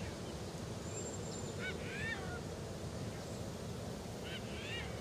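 Faint birds chirping over quiet background ambience: two short clusters of chirps, about two seconds in and again near the end.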